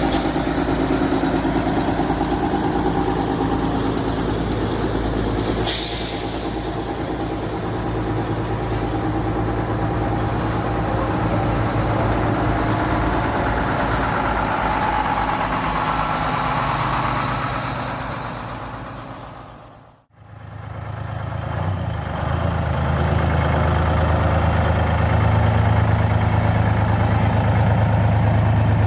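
Detroit Diesel truck engines running steadily, with a brief hiss about six seconds in. The sound fades out at about twenty seconds, and a different engine with a deeper, heavier note takes over.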